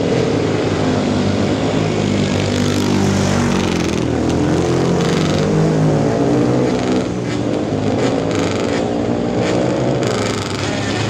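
Several classic racing motorcycle engines running together on the start line, their revs rising and falling as riders blip the throttles, with some sharp exhaust crackle in the second half.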